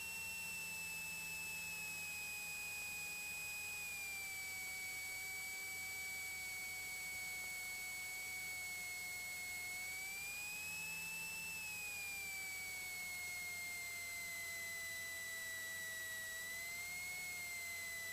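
Steady high electrical whine on a Cessna 182 Skylane's cockpit intercom audio: one tone with overtones, its pitch slowly falling, with a brief rise about ten seconds in and another near the end.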